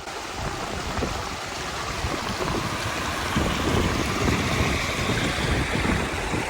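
Glacier-fed river water rushing steadily, with a deep rumble, growing louder over the first couple of seconds.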